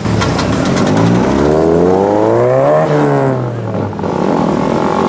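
A car engine revving: its pitch climbs for about two seconds, peaks about three seconds in with a brief hiss, then drops back.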